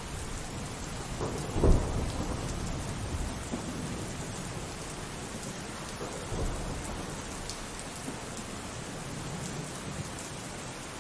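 Thunderstorm: steady rainfall with a sharp thunderclap about a second and a half in that rumbles on for a few seconds, and a weaker roll of thunder around six seconds in.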